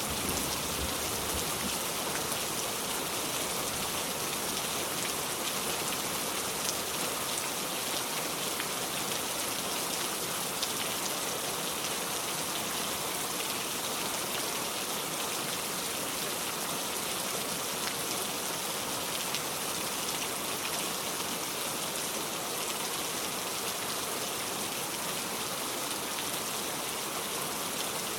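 Steady rain falling: an even, continuous hiss of raindrops with no breaks.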